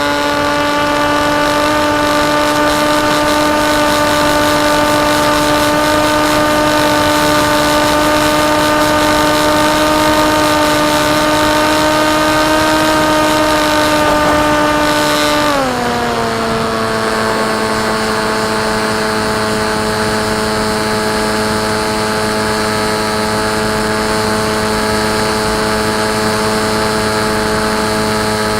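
Brushless electric motor and propeller of a KT Wing foam flying wing running in flight: a steady whine that creeps slightly higher in pitch, then drops to a lower pitch about halfway through as the throttle eases, and holds there.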